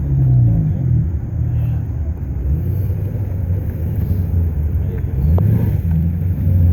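A car engine running with a low rumble, its pitch rising and falling a few times as it is revved lightly or moved slowly.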